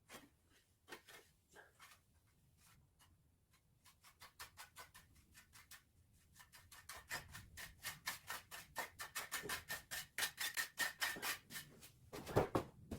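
Quick, repeated scraping strokes from a hand tool working a surface, sparse at first, then a steady run of several strokes a second that grows louder, followed by one heavier knock near the end.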